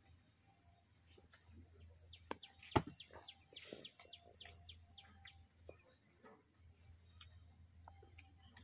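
A bird gives a quick series of short, high chirps, about four a second, for around three seconds. A single sharp knock about three seconds in is the loudest sound, with faint scattered clicks around it.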